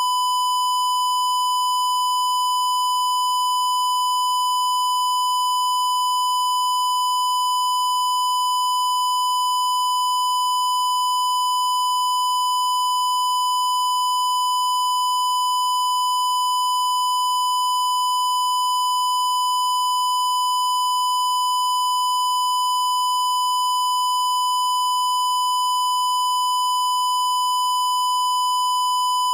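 A single steady, high-pitched electronic beep tone held unbroken at a constant loud level.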